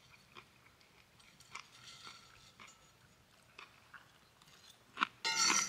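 A person chewing food quietly, with small clicks of a fork; about five seconds in, a louder metallic clink of the fork against the skillet, with a brief ring.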